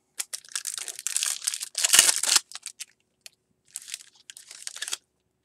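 A trading card pack wrapper crinkling as it is torn open, with the loudest rip about two seconds in and more crinkling near the end.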